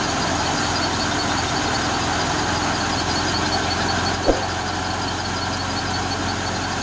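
Tractor engine running steadily, with a faint high ticking about four times a second and a single knock about four seconds in.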